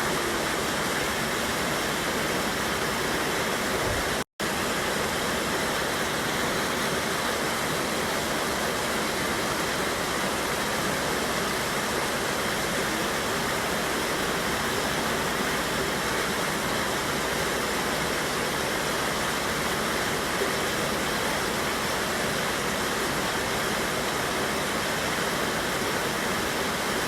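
A river pouring over a small waterfall: a steady, even rush of falling water, broken once by a split-second dropout about four seconds in.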